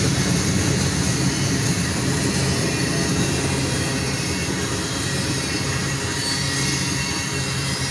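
Freight train cars (boxcars, then covered hoppers) rolling past close by, a steady noise of steel wheels running on the rails.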